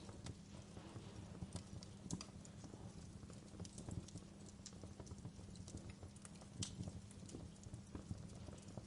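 Wood fire burning with a steady low rumble and frequent irregular crackles and pops; one pop stands out about two-thirds of the way through.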